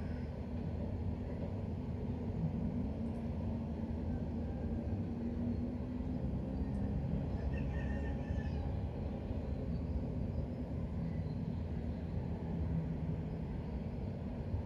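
Steady low rumbling background noise, with a few faint high chirps about eight seconds in.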